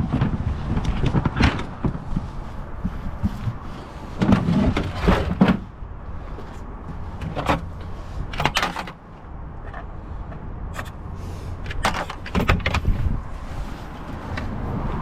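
Scattered knocks, clinks and rustles of litter being handled and bagged, over a steady low rumble.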